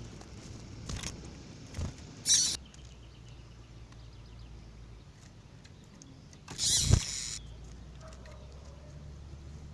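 Caged double-collared seedeaters (coleiros) giving two short sharp calls: a brief high one about two seconds in and a louder, longer one near the middle that also carries a low thump, over a quiet steady background.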